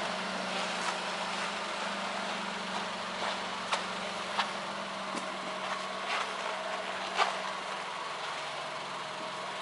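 Honda Vamos Hobio Turbo's 656 cc three-cylinder turbocharged kei engine idling steadily, with a few sharp clicks scattered through.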